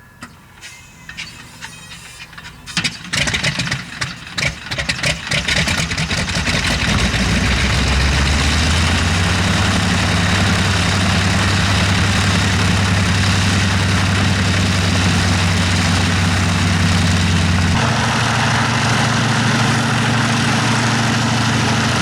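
Nanchang CJ-6's nine-cylinder radial engine catching on a hard start: a few seconds of uneven, sputtering firing, then it settles into a steady idle about seven seconds in. About four seconds before the end its note shifts to a slightly different steady pitch.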